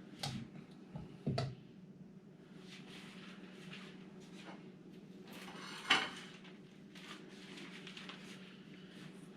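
A metal utensil knocking and scraping against a frying pan while sausage is stirred, a few sharp clinks early on and the loudest one about six seconds in. A steady low hum runs underneath.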